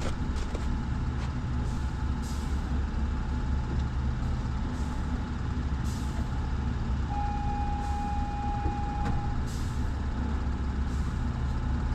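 Steady low machinery hum, with short hisses every second or two and a single steady high tone, like a beep, from about seven seconds in lasting about two seconds.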